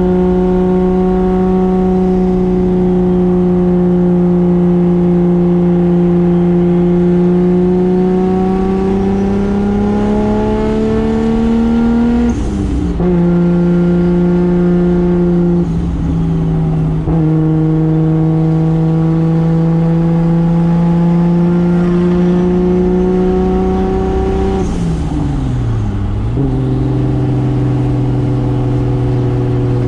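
Toyota 2JZ straight-six with single turbo pulling through the gears in the car: its pitch climbs slowly, drops sharply at a gear change about twelve seconds in, climbs again, then falls away near the end to a lower steady drone. A brief high hiss comes at each of the two big drops.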